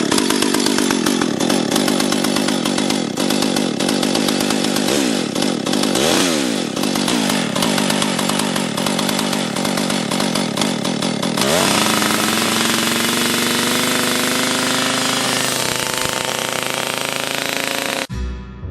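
Stihl 031 AV two-stroke chainsaw running just after a cold start. Its pitch rises and falls a few times with throttle blips, then settles to a steadier tone about eleven seconds in, and the sound cuts off suddenly near the end.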